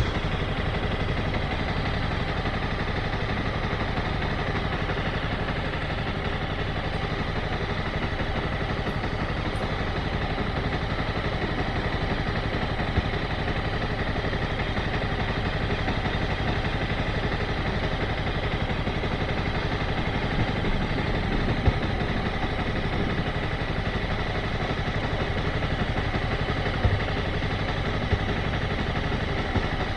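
Motorcycle engine running steadily at low revs, with a few brief clicks or knocks scattered through.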